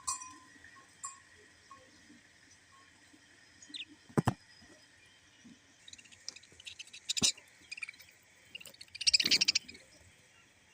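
Pet parrots: a few short chirps at the start, then scattered sharp clicks and a loud scratchy rustling burst about nine seconds in.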